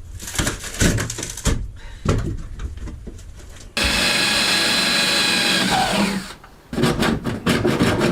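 Knocking and scraping as rotten wood and fibreglass are pried and broken out of a boat's lockers. About halfway through, a power tool starts running steadily with a high whine, and its pitch falls as it winds down. More knocks follow near the end.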